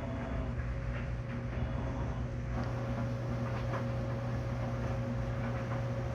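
A steady low mechanical hum with a faint, constant higher whine above it.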